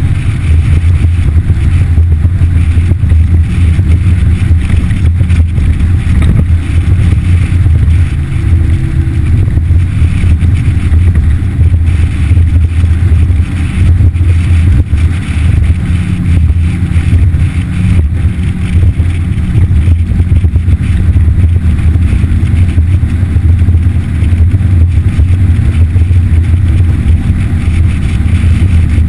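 Yamaha F60 four-stroke outboard motor running at a steady speed with the boat under way.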